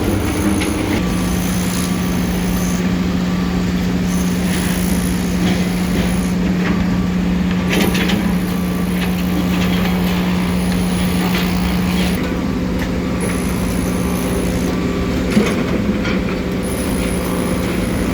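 A heavy engine running steadily with a constant low hum, under a wash of noise and scattered clicks and knocks.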